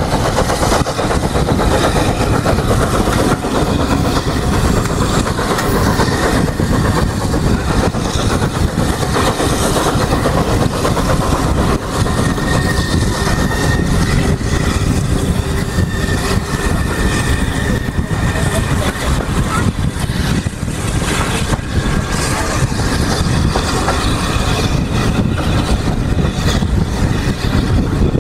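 Steam-hauled passenger train running along the track, heard from an open carriage window: the loud, steady noise of the coaches' wheels on the rails.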